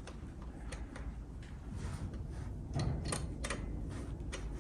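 Light scattered clicks and taps of tools and metal brake parts being handled, a small cluster about three seconds in, over a low steady hum.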